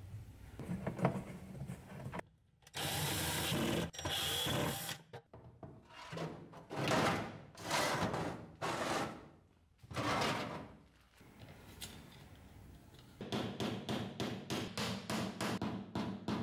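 Tool work on wood: several separate bursts of a power drill or driver, each about a second long. Near the end come fast, even strokes at about four a second.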